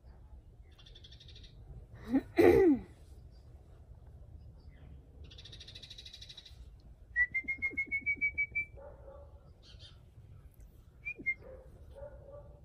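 Backyard birds calling: a loud, short call about two seconds in, chirping, then a run of about eight quick, evenly spaced whistled notes, rising slightly, starting around seven seconds in. The birds are calling back and forth.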